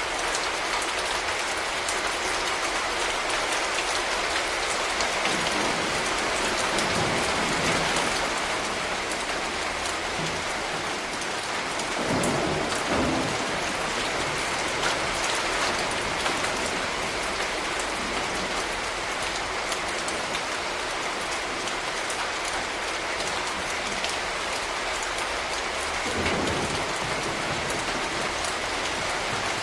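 Steady rain falling and pattering on surfaces, an even hiss, with a low rumble swelling up a few times.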